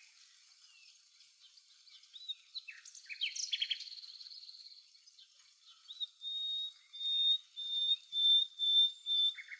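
Birds chirping and calling: scattered high chirps, a rapid trill about three seconds in, then a run of about six short, level whistled notes.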